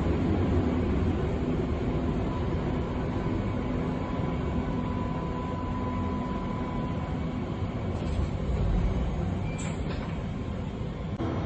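Berlin U-Bahn U3 train running along the line: a steady rumble of wheels on rails, with a faint steady whine for a few seconds in the middle.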